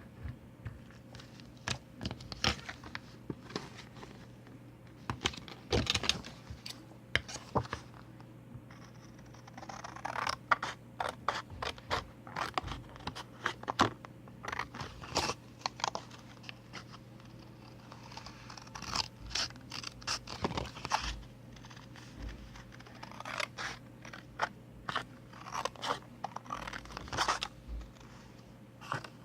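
Scissors cutting paper in short, irregular clusters of snips and scraping strokes.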